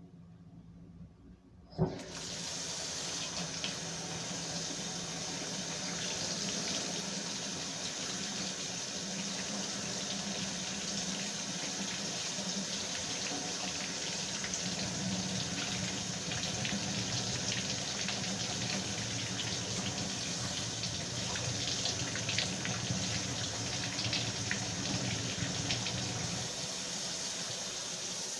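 Kitchen sink tap turned on with a knock about two seconds in, then water running steadily into the sink as a fork is washed under it, with light clinks now and then.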